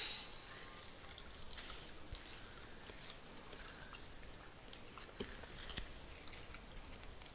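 Fingers scratching and rubbing through a beard and over skin close to the microphone: a soft, crackly scratching with scattered sharper clicks, a few of them standing out about five to six seconds in.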